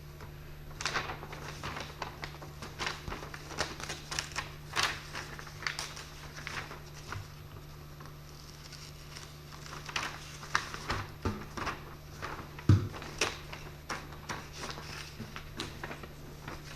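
Irregular light clicks, taps and scrapes of hands working with tools and parts, thinning out briefly in the middle, with one louder knock about two-thirds of the way through, over a steady low hum.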